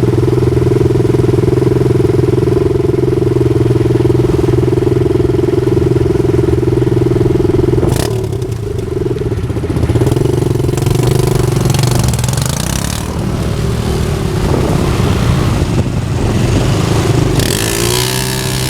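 Motorcycle engines running with a steady drone, broken by a sharp click about eight seconds in, after which the engine sound drops and becomes uneven.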